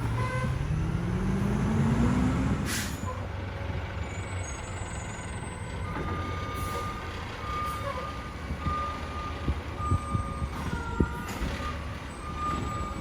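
Garbage truck's diesel engine revving up, a hiss of air brakes about three seconds in, then its backup alarm beeping repeatedly from about halfway through as the truck reverses.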